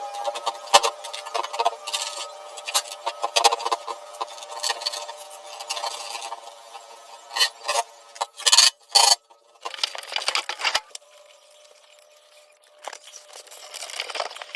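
Irregular clicks, taps and knocks of hard parts being handled and fitted, with a cluster of louder knocks about two thirds of the way in. A faint steady hum runs under the first half.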